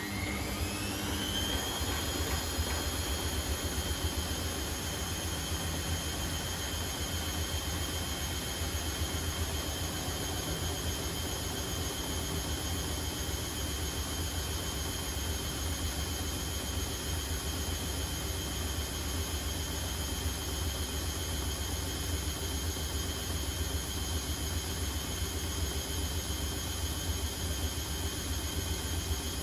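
Privileg Sensation 952 S top-loading washing machine spinning up. A motor whine rises in pitch over the first couple of seconds, then holds steady at spin speed over a low, even drum rumble.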